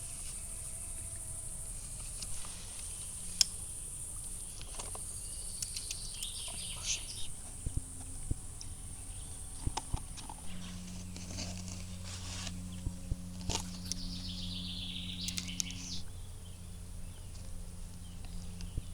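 Outdoor nature ambience: a steady high insect trill, with bird calls in quick falling series about six seconds in and again near the end. A low steady hum comes in about halfway through, and there are a few scattered clicks.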